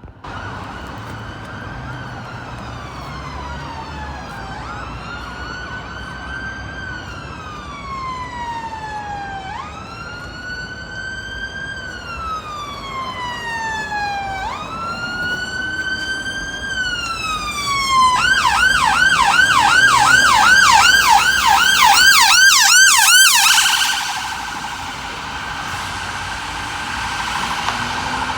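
Emergency vehicle's electronic siren sounding a slow wail, each cycle rising quickly and falling over a few seconds, over road traffic. Well after halfway it switches to a fast yelp of about four cycles a second, the loudest part. The yelp stops after about five seconds, leaving a fainter steady tone.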